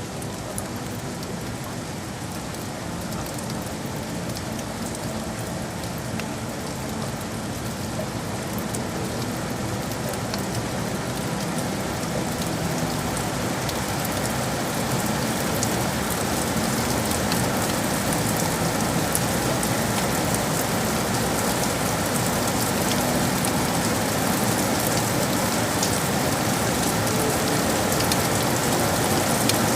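Steady rain falling in dense drops, growing gradually louder.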